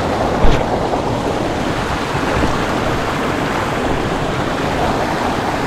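Steady rush of flowing creek water, with a single brief thump about half a second in.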